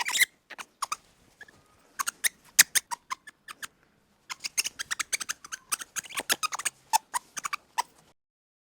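An animal's short, sharp clicking calls in quick, irregular runs, with a brief pause about four seconds in.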